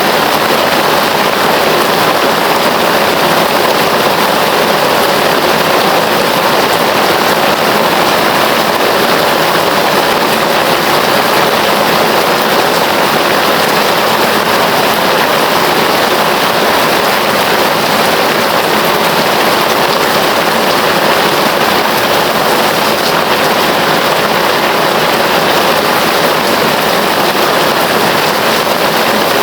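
Heavy rain falling steadily, a dense, even hiss of rain with no letup.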